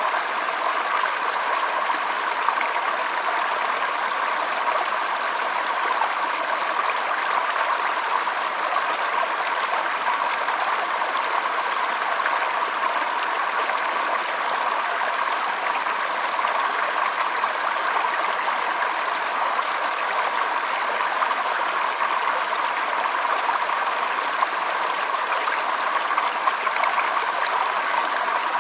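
Running water flowing steadily, an even, unchanging rush and trickle.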